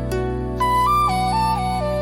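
Instrumental meditation music: a flute melody enters about half a second in and steps down through a few held notes over sustained low chords.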